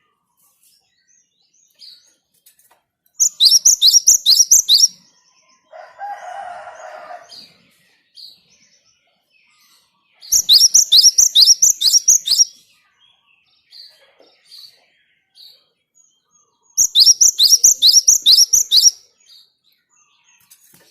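Java sparrow singing: three bouts of rapid, repeated high down-slurred notes, with soft single chirps between them and a lower, rough call about six seconds in.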